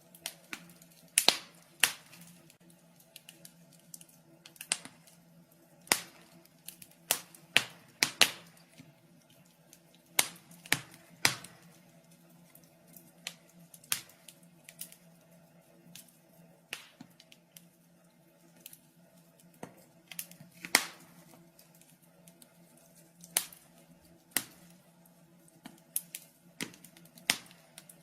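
Wood fire crackling in a fireplace: irregular sharp snaps and pops from the burning logs over a faint low hum.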